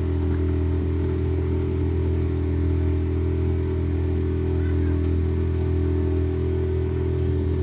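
Motorboat engine running at a steady speed, a low, even drone that holds its pitch throughout.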